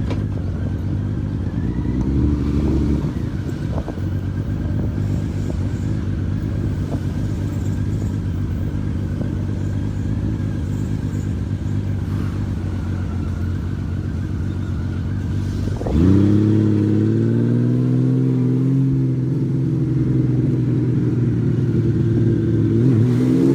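Honda Valkyrie motorcycle being ridden, its engine running under a steady rumble of road and wind noise. About two-thirds of the way through, the engine note jumps up and rises in pitch as the bike accelerates, then holds at the higher note.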